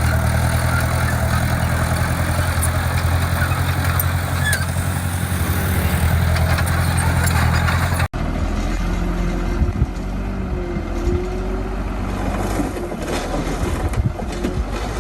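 Heavy construction machine's diesel engine running steadily at a loud, even pitch. About eight seconds in the sound cuts abruptly to a lower engine rumble with scattered metallic clanks and several short squeals.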